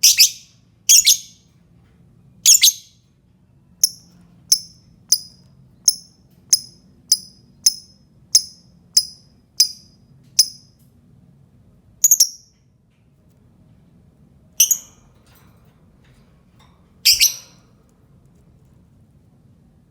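Lovebird chirping: a few harsh sharp calls, then a quick run of about a dozen short, high chirps at roughly two a second. Three more single loud calls follow, spaced a few seconds apart.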